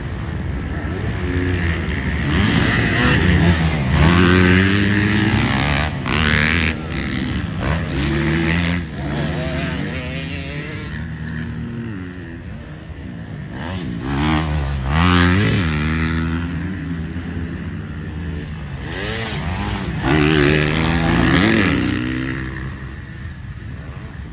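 Motocross dirt bikes racing, their engines revving up and backing off again and again, with the pitch climbing and falling. The engines are loudest three times: about 4 seconds in, around the middle, and about 21 seconds in.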